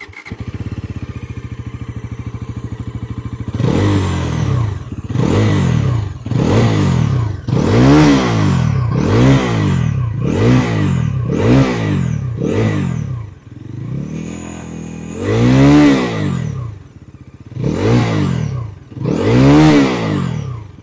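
Bajaj Pulsar NS400Z's single-cylinder engine through its stock underbelly exhaust: a steady idle for a few seconds, then about a dozen quick throttle blips, each a rise and fall in revs about a second apart, with a short settle back toward idle before the last few.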